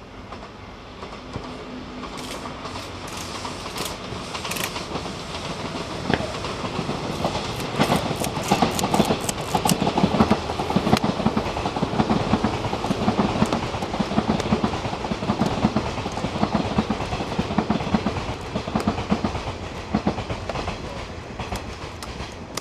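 A train passing close by, its wheels clattering over the rail joints. It grows louder over the first several seconds, is loudest around the middle, and eases off near the end.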